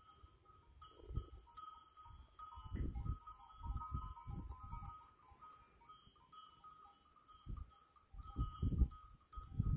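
A grazing flock of goats and sheep, goats bleating, with several short low rumbles.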